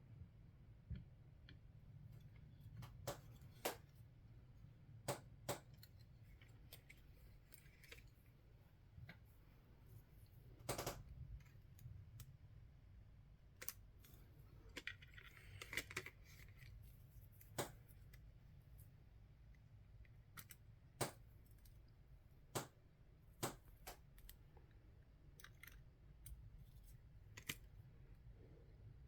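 Irregular sharp clicks and taps of small tools and parts being handled while a Xiegu X6200 radio is taken apart, with a brief scrape about halfway through, over a low steady hum.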